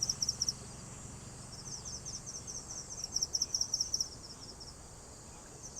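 Insects chirping in high-pitched, rapid pulsed trains. They come in runs of about a second or two with short pauses, fading out for a while near the end, over a faint steady background.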